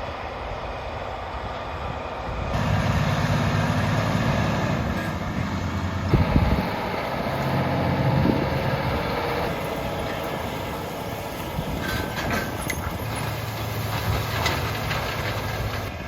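Vehicle engine running with a steady mechanical rumble, its low hum shifting in strength several times, and a brief knock about six seconds in.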